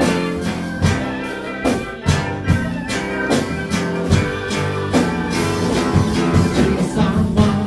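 Live band playing an instrumental passage, with guitar and a steady beat of hits about every 0.8 seconds.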